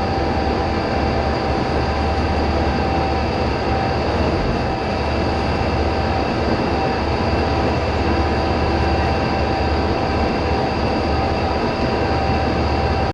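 Tour bus driving steadily, its engine hum and running noise heard from inside the cabin as one even, unbroken rumble with a faint steady whine.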